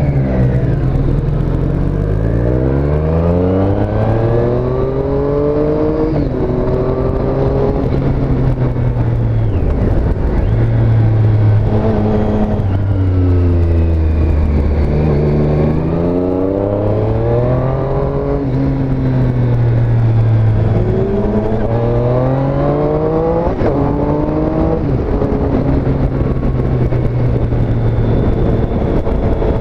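2017 Triumph Street Triple S's 765 cc inline three-cylinder engine accelerating through the gears, its pitch rising then dropping back at each upshift, in three runs of acceleration, over steady road and wind noise.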